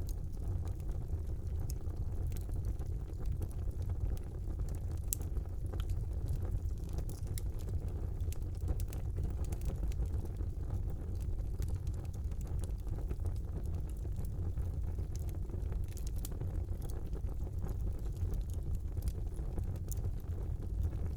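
Fire burning in a fireplace: a steady low rumble of the flames with scattered small crackles and pops.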